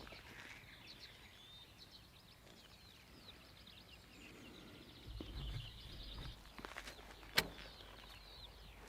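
Songbirds twittering in a quick run of short high chirps, with a low rumble about five seconds in and a single sharp click a couple of seconds later.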